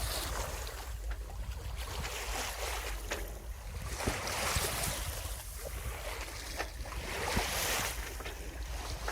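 Water rushing and splashing along the hull of a Viking 28 sailboat under sail, swelling every second or two, with wind buffeting the microphone as a steady low rumble.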